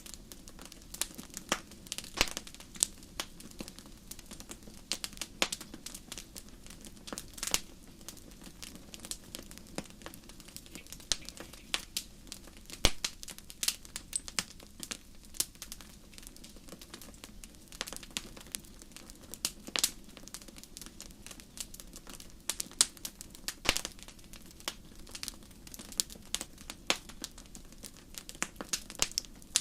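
Wood fire burning in a fireplace: irregular crackles and pops of burning logs over a low steady hiss of the flames.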